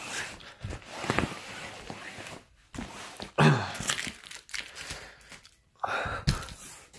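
Firework box packaging being torn open and handled, with irregular tearing and crinkling and a few knocks; the loudest comes about three and a half seconds in.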